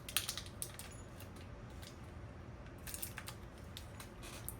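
Small wrapped cheese being opened by hand: light plastic packaging clicks and crinkles in two short clusters, one right at the start and one about three seconds in.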